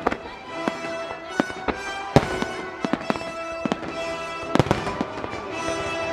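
Aerial firework shells bursting in a rapid, irregular run of sharp bangs, the loudest about two seconds in and a dense cluster around four and a half seconds in. The display's accompanying music plays steadily underneath.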